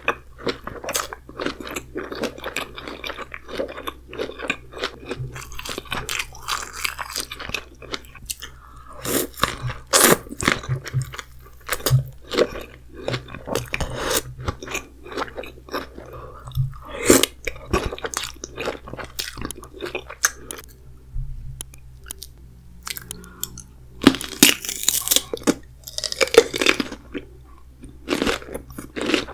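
Close-miked eating of a saucy seafood boil: crunching, biting and chewing, with many sharp clicks and wet smacks, a short quieter lull past the middle, then a louder burst of crunching.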